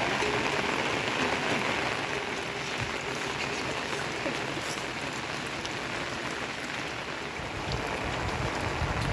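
Steady rain falling, an even hiss of drops on surfaces, with a low rumble near the end.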